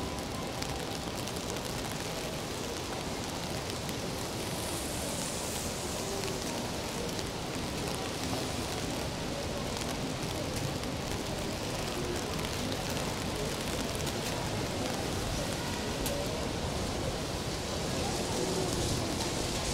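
Steady rain on a city street, an even hiss with scattered ticks of drops. Faint voices of passers-by lie beneath it.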